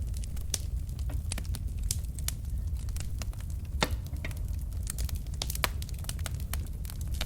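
Wood fire burning in a fireplace: a steady low rumble of flame with irregular crackles and pops from the burning logs, a sharper pop about four seconds in.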